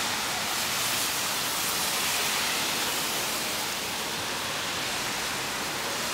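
Steady, even hiss of heavy rain falling, with no break or single event standing out.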